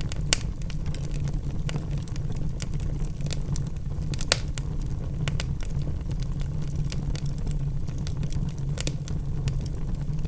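Wood fire burning in a fireplace: a steady low rumble of flames with irregular sharp crackles and pops from the logs, the loudest pops about a third of a second in and about four seconds in.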